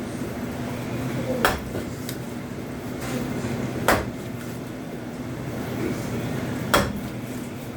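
A knife chopping a whole salmon into steaks on a cutting board: three sharp knocks about two and a half seconds apart, over a steady low hum.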